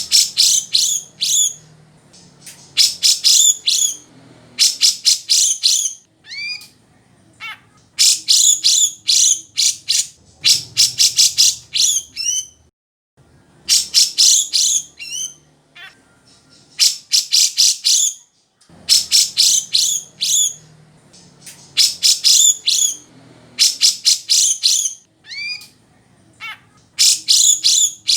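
Grey-cheeked bulbul (cucak jenggot) singing in full voice: loud bursts of rapid, high, rattling notes, each burst lasting a second or two, repeated every few seconds with short slurred whistles between them.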